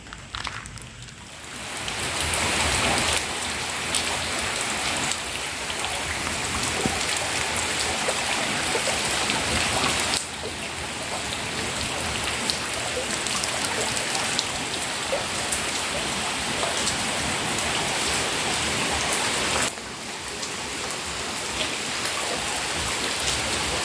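Steady rain falling, a dense hiss with scattered drop ticks. It builds up about two seconds in, and its level steps down abruptly twice, around ten and twenty seconds in.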